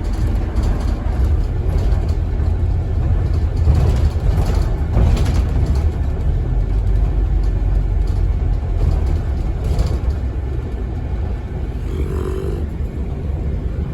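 Scania N270UD OMNICity double-decker bus under way, heard from inside the passenger cabin: its five-cylinder diesel engine and road noise make a steady low rumble, easing slightly near the end.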